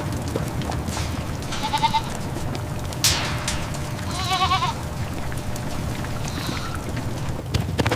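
Goats bleating: a short call about two seconds in, then a longer wavering bleat around halfway and a faint one later, over a steady low rumble. A brief hissing burst comes about three seconds in.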